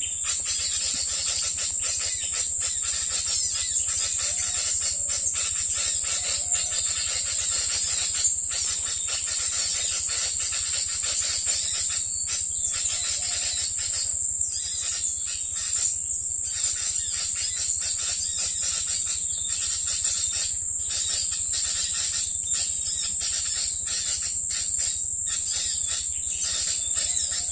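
Continuous high-pitched insect trilling with many short chirps and ticks running through it.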